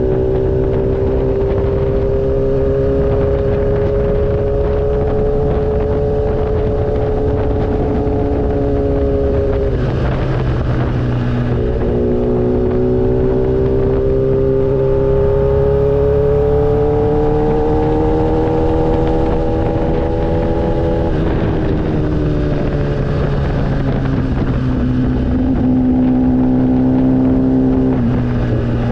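Motorcycle engine running under way, its note climbing slowly and then dipping or dropping three times: about ten seconds in, about twenty-one seconds in and a couple of seconds later, as with gear changes or throttle lifts. A steady rushing noise runs underneath.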